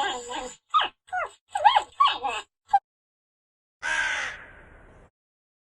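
A rapid series of short, pitched animal cries, then a single harsher, raspier call about four seconds in that fades and cuts off suddenly.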